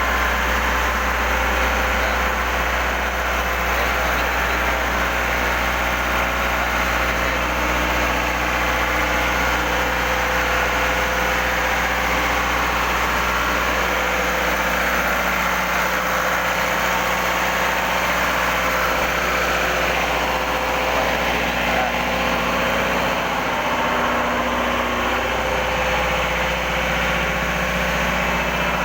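Loud, steady drone of engine-room machinery, an engine running at a constant idle-like speed with a continuous hum.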